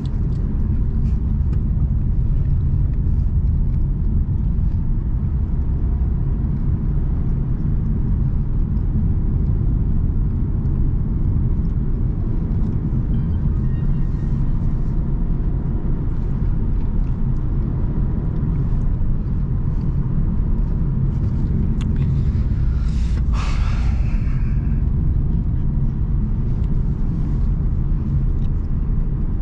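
Car driving along a road: a steady low rumble of engine and tyres. A little over three-quarters of the way through, a brief, higher rushing noise rises over it for about a second.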